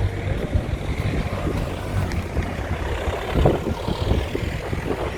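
Ride noise inside a moving bus: a steady low engine and road rumble with frequent short knocks and rattles.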